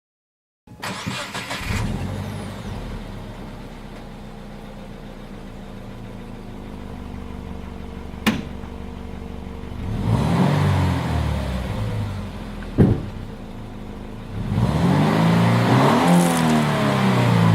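A 2016 Subaru Impreza's flat-four engine starts under about a second of cranking, then settles to a steady idle heard through its exhaust. About ten seconds in it is revved briefly, and near the end it is revved again for longer, the pitch rising and falling each time.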